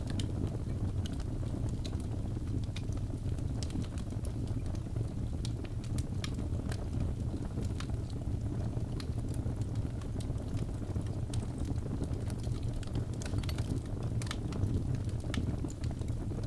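Crackling fire: a steady low rumble with irregular sharp pops and crackles scattered through it.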